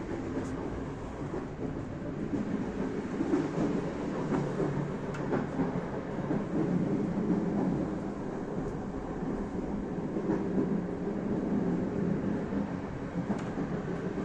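Passenger train running on the rails: a steady rumble with a few faint clicks scattered through it.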